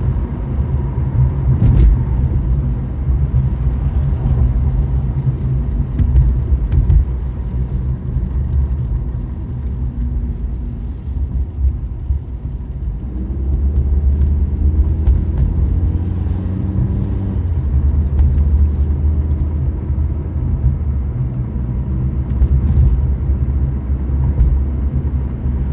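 Car being driven, heard inside the cabin: a steady low rumble of engine and road noise.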